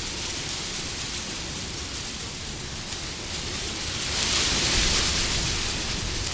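Wind blowing steadily, swelling into a stronger gust about four seconds in and easing again.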